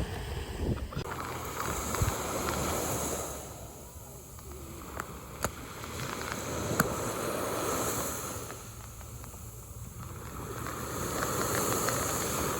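Rushing noise of water, like surf washing in, that swells and fades about every four to five seconds, with a few sharp clicks near the middle.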